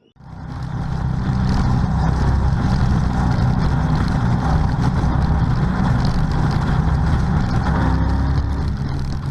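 Car engine running loud and steady at a constant pitch, rising in over about the first second.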